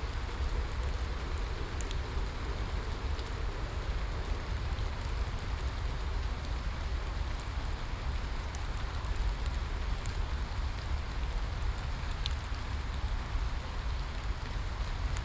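Steady rain, with a constant hiss, a low rumble underneath and scattered sharp drop ticks.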